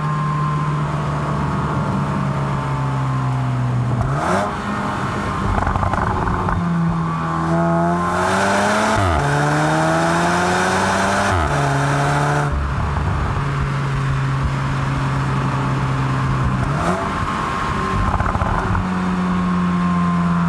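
A Porsche Macan's 2.0-litre turbocharged four-cylinder pulling at high revs in a low gear, heard from inside the cabin. The engine note drops and jumps back up several times as the PDK dual-clutch gearbox shifts, with a louder, harsher stretch in the middle under harder throttle.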